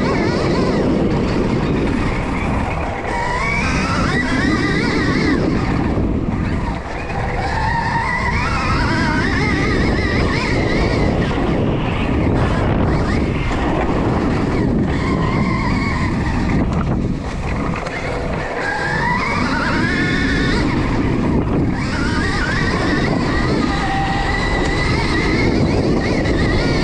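Stark Varg electric dirt bike's motor whining up and down in pitch as the throttle is opened and rolled off, over a steady rush of wind and tyre noise on dirt.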